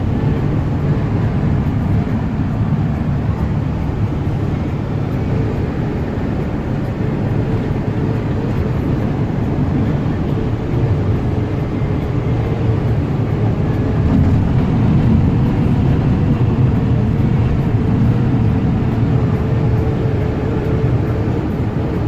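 Steady road noise inside a moving van's cab: engine and tyre rumble with a faint steady whine, swelling slightly about halfway through.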